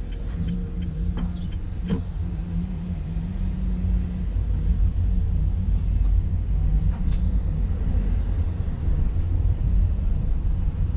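Car driving, heard from inside: a low engine and road rumble that grows louder over the first few seconds, then holds steady.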